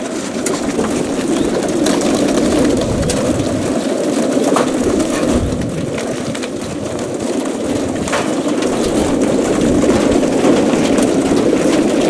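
Dozens of young racing pigeons packed into trailer crates, cooing together in a dense, steady chorus, with scattered light clicks over it.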